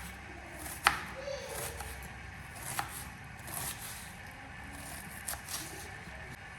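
Vegetables being chopped by hand with a knife: a handful of irregular cuts, the sharpest about a second in.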